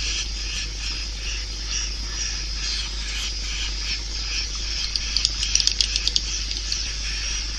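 Swiftlet lure call played for a swiftlet house: repeated high twittering chirps, about three a second, with a quick run of sharp clicks about five seconds in, over a steady low hum.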